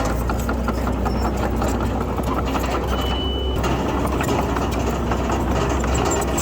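Diesel engine of heavy earthmoving machinery running steadily, with continuous rattling and clanking. A brief high-pitched tone sounds about three seconds in.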